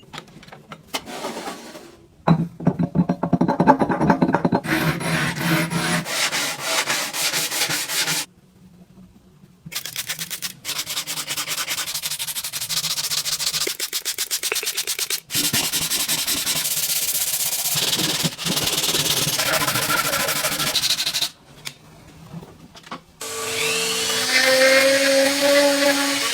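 Sanding on parts of an old fan: quick repeated scratchy rubbing strokes in several separate takes, broken by two short silences. Near the end a small power tool starts running with a whine that shifts in pitch.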